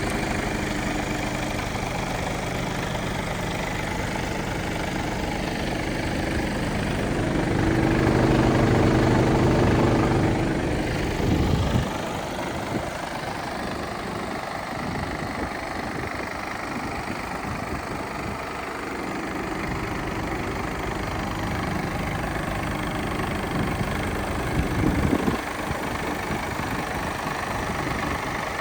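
A Mercedes Actros MP5's straight-six diesel engine idling steadily. It grows louder for a few seconds about eight seconds in. There is a brief sharp burst of sound near 11 seconds and another near 25 seconds.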